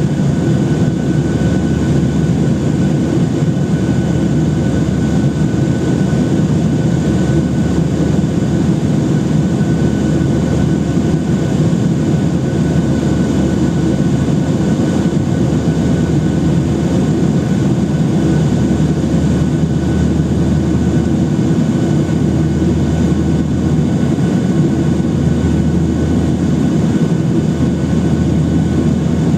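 Steady engine and cabin noise inside a Boeing 737-800 with its CFM56-7B jet engines running: an even low roar with a thin, steady high whine, holding level with no change in power.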